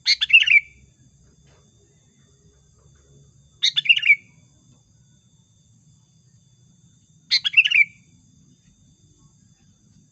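Sooty-headed bulbul (kutilang) calling: three short chattering phrases, each under a second long and falling in pitch, about three and a half seconds apart. It is a lure call of a female calling to males, used to draw in wild bulbuls.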